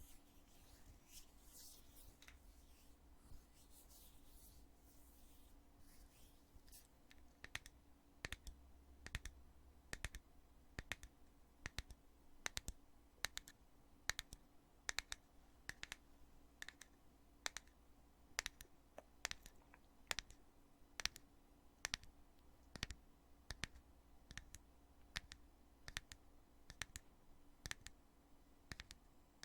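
Lid of a foundation container being opened and snapped shut over and over, giving sharp clicks about two a second. Before the clicking starts there are a few seconds of soft rubbing and handling.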